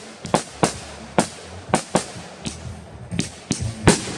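Consumer aerial fireworks going off: an irregular run of sharp bangs, about nine in four seconds, with the loudest near the end.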